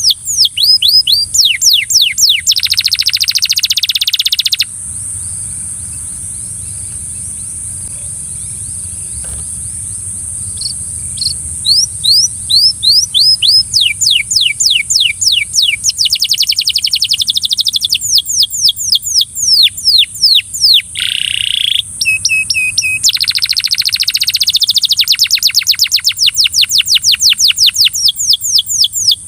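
Belgian canary singing long rapid trills of repeated downward-sweeping notes. The song stops for about six seconds a few seconds in, then resumes and runs on in fast rolls. A steady high-pitched drone sounds underneath throughout.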